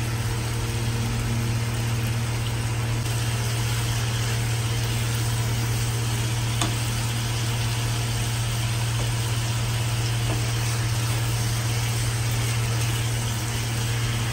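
Chicken, onions and spices frying in a kadai with a steady hiss, over a constant low hum. One light click about six and a half seconds in.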